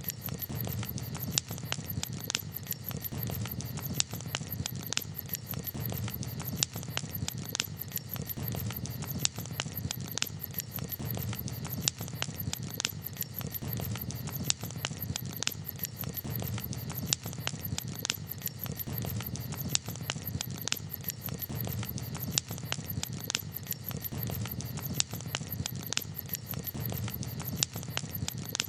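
Campfire crackling: frequent, irregular sharp pops and snaps of burning wood over a steady low background of the fire.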